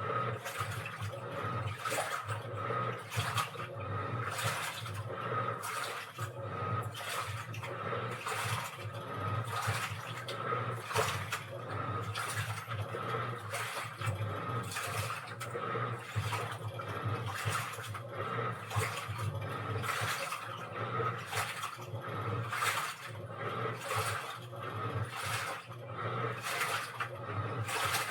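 Washing machine running: water sloshing in the drum in repeated surges over a steady motor hum.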